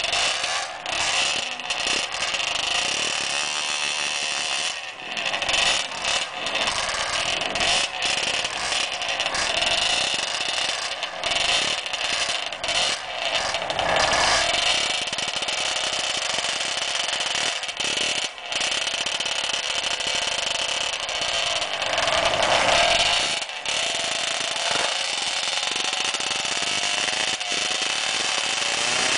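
Small racing motorcycle engine revving high and hard while the bike is held at the drag strip's start line. The throttle is blipped again and again with brief drops between blips, and the revs climb higher about halfway through and again a few seconds before the end.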